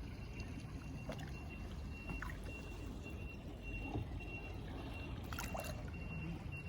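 Water lapping gently at the shore, over a low steady rumble, with a few faint clicks.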